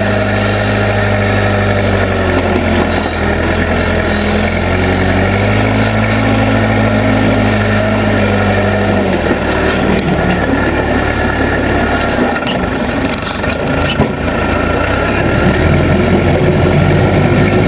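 Case 580B backhoe's engine running while it works, its pitch shifting up and down with the load, dropping about nine seconds in and picking up again near the end.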